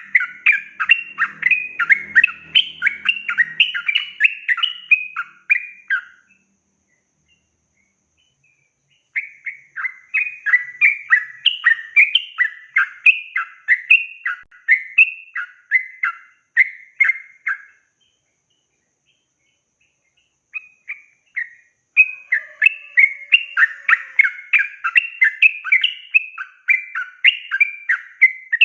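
Sooty-headed bulbul (trucukan) singing a long, rapid song of quick repeated notes. The song comes in runs of several seconds, broken by pauses of two to three seconds.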